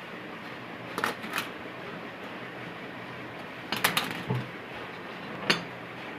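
Sharp metallic clicks and clinks of hand tools and small parts being handled: two about a second in, a short cluster around four seconds in, and one more near the end, over a steady background hiss.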